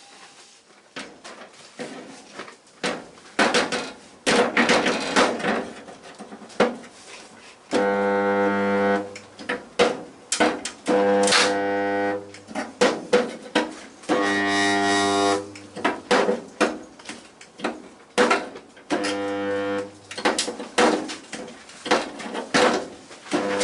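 MIG welder tack-welding sheet-metal panels: four buzzing, crackling welds of about a second each, with sharp metal taps and knocks scattered between them.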